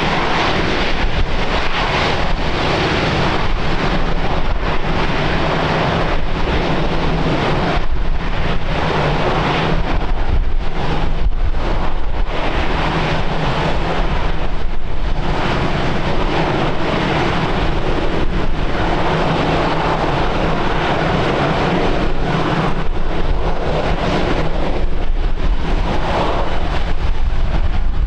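Wind gusting on the microphone over the steady drone of an airliner's engines.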